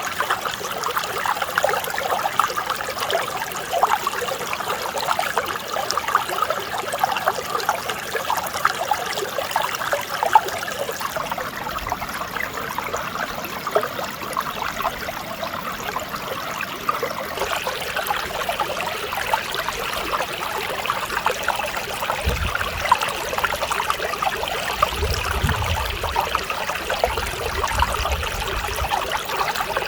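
Mountain stream water running and babbling over rocks, a steady crackling rush. Past the middle it turns a little brighter, and a low rumble joins in for the last several seconds.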